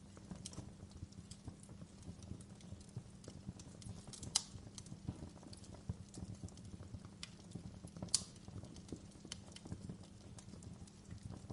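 Wood fire crackling in a fireplace: a steady low rumble of burning with dense, irregular small crackles, and two sharper pops about four and eight seconds in.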